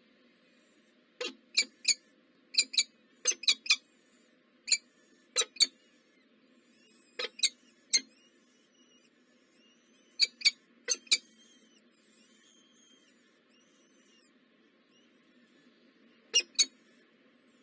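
Birds at a nest giving short, sharp, squeaky chirps in quick clusters of two or three, repeated with pauses between. Fainter, thinner chirps sound in the background about halfway through, over a low steady hum.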